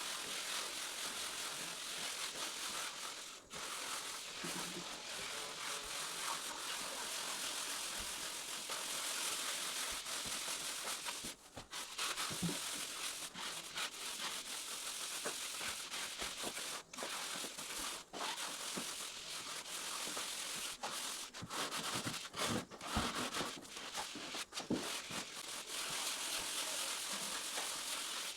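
Continuous rough scraping and rubbing, typical of a trowel spreading and smoothing cement plaster across a floor, with a few short breaks between strokes.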